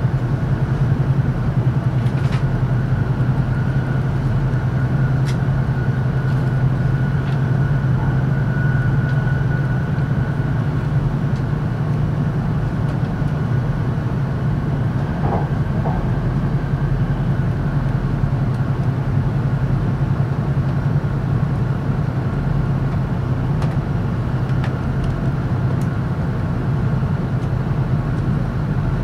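Steady running noise of an E5 series Shinkansen heard from inside the passenger cabin: a low rumble with a faint high whine, and a few light ticks.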